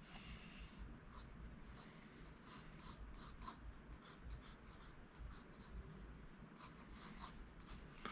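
Faint scratching of an HB graphite pencil on paper: many short sketching strokes, one after another.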